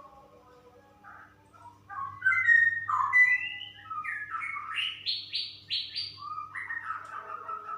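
Female straw-headed bulbul singing a rapid run of loud, liquid notes starting about two seconds in, with four quick rising sweeps in the middle of the run.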